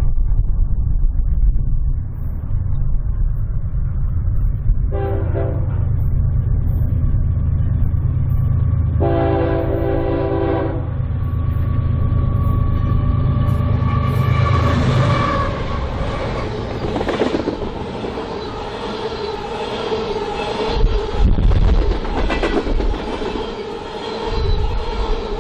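Freight train's diesel locomotives approaching with a steady low engine rumble, sounding a multi-chime air horn: a short blast about five seconds in and a longer one about nine seconds in. From about fourteen seconds the locomotives pass and the empty tank cars roll by, their wheels clattering and ringing on the rails.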